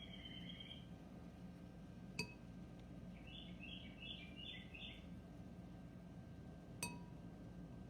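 Faint wild birdsong: a brief call at the start, then a quick run of about five chirped notes a few seconds in. Two sharp clinks stand out, one about two seconds in and one near the end.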